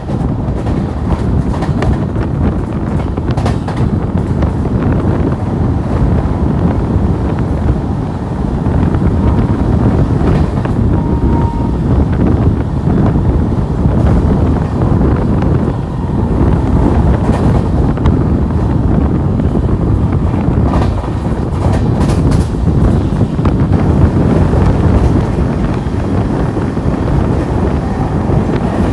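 Garib Rath Express passenger train running, a steady loud rumble of the coach on the track with faint scattered clicks, with wind buffeting the microphone.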